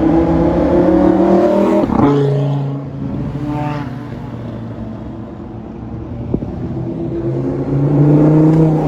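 A performance car's engine accelerating hard: its note climbs, drops sharply at a gear change about two seconds in, and climbs again near the end.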